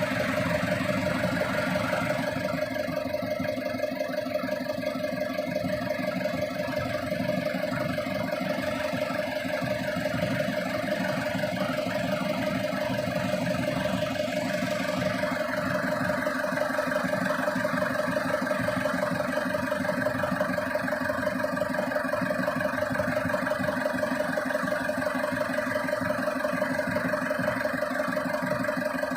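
Engine of a Turbo T600 power sprayer running steadily at constant speed, with a strong steady hum.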